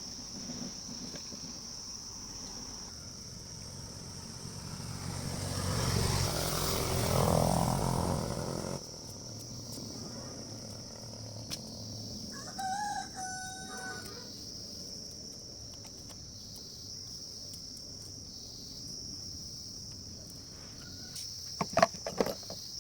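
Steady high insect chirring, with a rooster crowing once about halfway through. Earlier, a louder swell of noise rises and then cuts off suddenly, and a few sharp knocks come near the end.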